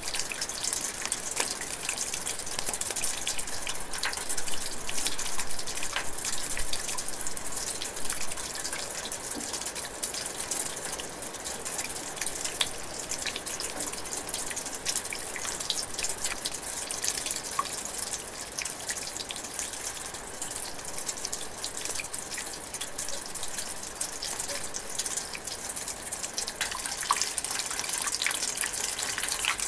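Steady drizzling rain in a forest: an even hiss of falling rain with many small drops ticking throughout.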